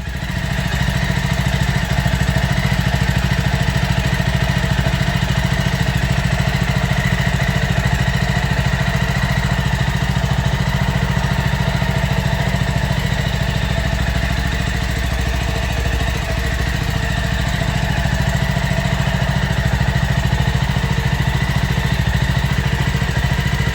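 Jawa 42 motorcycle's single-cylinder engine idling steadily after starting.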